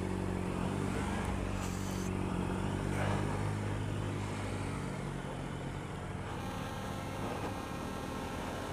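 Motorcycle engine idling with a steady low hum that weakens about five seconds in, leaving a fainter steady hum.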